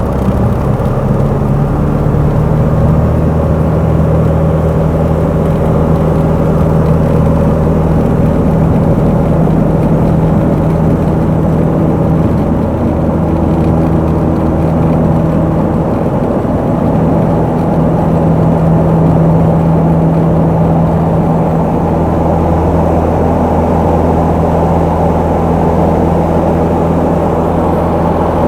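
Light aircraft engine and propeller running steadily at takeoff power during the takeoff roll.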